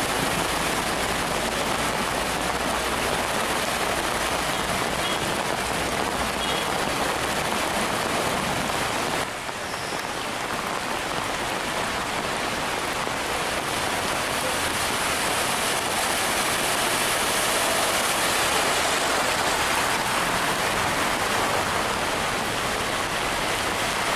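Heavy downpour falling on flooded streets: a steady hiss of rain and water, briefly dipping in level about nine seconds in.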